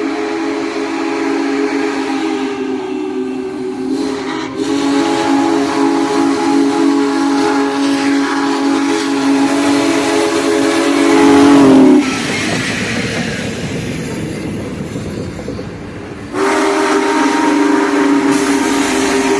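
Union Pacific Big Boy steam locomotive blowing its chime whistle, a chord of several tones. One long blast sags in pitch as it ends about 12 seconds in, followed by the rumble and hiss of the train running past, and a second long blast starts about 16 seconds in.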